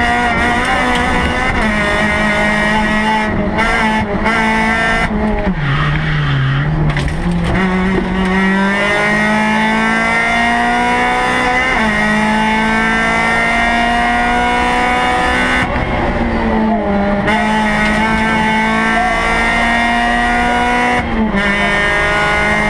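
Rally car engine heard from inside the cockpit, pulled hard through the gears. The revs climb and step down at each gear change, and dip sharply about five seconds in before climbing again.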